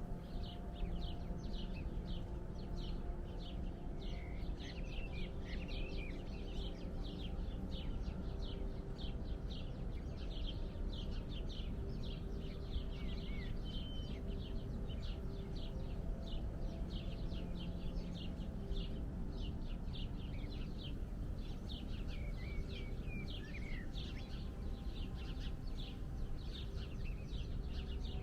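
Birds chirping: a steady stream of short, high chirps, two or three a second, with a few lower gliding calls now and then, over a steady low background rumble.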